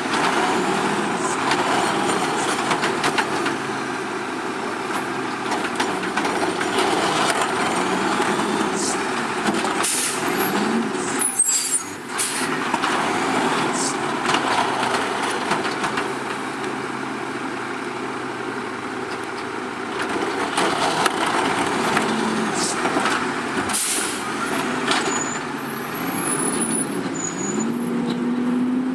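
Autocar garbage truck's diesel engine running, revving up several times with its pitch rising, the last time near the end. A few sharp air-brake hisses sound over it.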